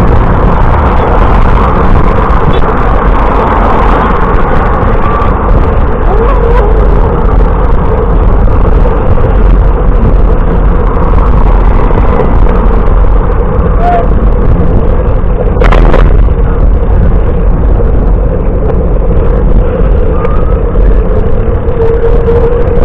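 Steady, loud wind noise on the microphone of a moving bicycle, with one sharp click about 16 seconds in.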